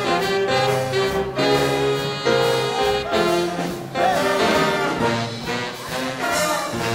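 Big band playing hot swing jazz, with the brass section prominent: horns play held chords that change in a steady rhythm.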